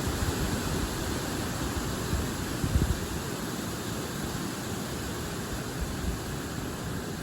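Strong wind gusting through large forest trees, leaves rustling in a steady hiss over a low rumble that swells briefly about three seconds in.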